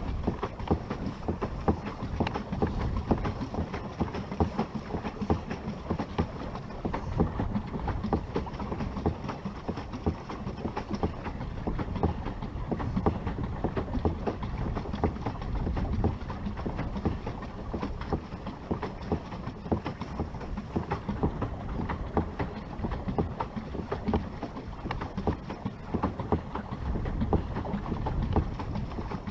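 Sun Dolphin pedal boat being pedaled, its pedal drive churning along with a continuous, dense rattling clatter.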